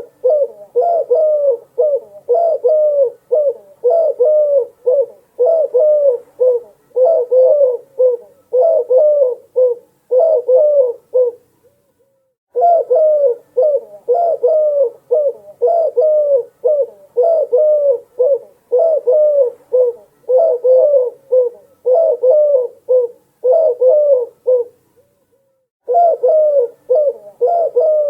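Dove cooing in a fast run of short coos, about two a second, with a brief pause about twelve seconds in and another near the end.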